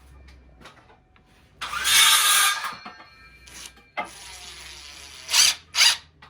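Cordless drill driving screws into wood, run in short trigger bursts: a loud run of about a second, a quieter stretch, then two quick bursts near the end.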